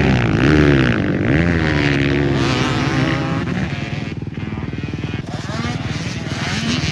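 Motocross bike engines racing, revving up and down repeatedly as they accelerate and shift. Loudest over the first few seconds, the sound dips about four seconds in, then builds again.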